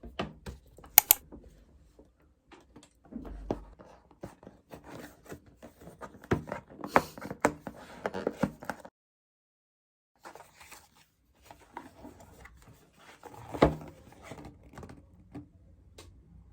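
Household handling sounds: a run of sharp clicks, taps and knocks with some rustling. The two loudest knocks come about a second in and about three seconds before the end, and the sound cuts out completely for a second in the middle.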